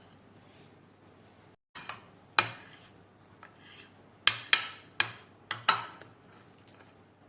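Metal cutlery clinking against a plate: about seven sharp clinks with a short ring after each, starting about two seconds in and bunched closely in the middle.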